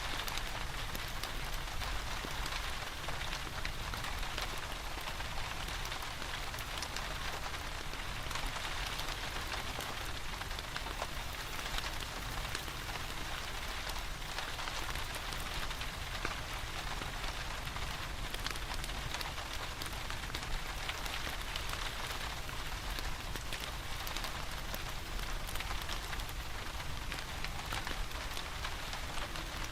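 Steady rain falling, with many fine scattered ticks from drops, mixed with a wood fire burning in a fireplace.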